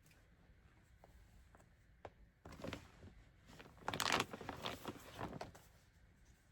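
Rustling and crinkling of a bag of yarn skeins being handled, in a few bursts that are loudest about four seconds in, after some faint clicks.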